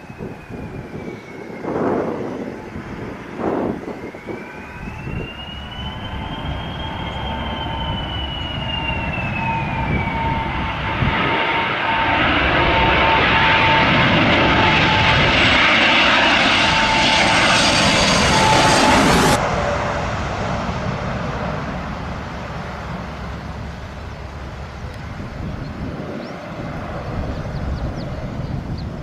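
Gulfstream V's twin Rolls-Royce BR710 turbofans whining as the jet comes in to land, growing louder to a peak as it passes. The high whine cuts off suddenly about two-thirds of the way through, leaving a lower rumble with wind noise.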